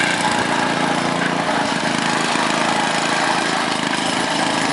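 Small engine of a walk-behind garden tractor running steadily, with its drive belt a little loose but still working.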